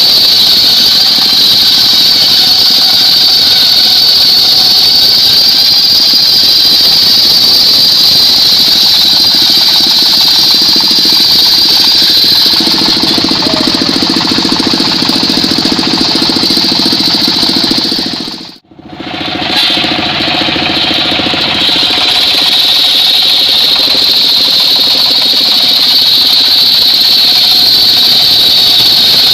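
Engine-driven portable circular sawmill cutting mahogany: a loud, steady high-pitched blade whine over the running engine. About two-thirds of the way through, the sound drops out for an instant and comes straight back.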